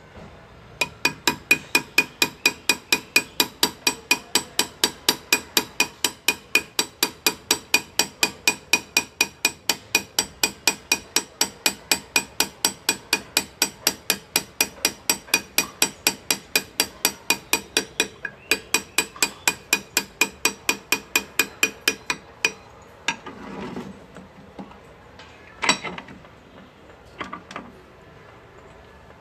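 Small hammer tapping a hand-engraving chisel into metal, at a steady rate of about four ringing taps a second. It stops briefly, resumes for a few seconds, then gives way to a few scattered clinks, one of them louder.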